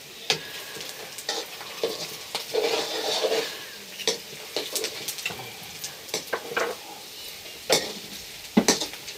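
Chicken pieces frying in hot oil in a metal wok, sizzling, while a wooden spatula stirs them and scrapes and knocks against the pan; the sharpest knocks come near the end.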